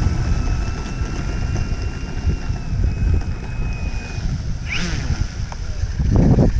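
Strong wind buffeting the microphone with a rumble, over a faint steady whine from the RC model aircraft's motor that stops about four seconds in.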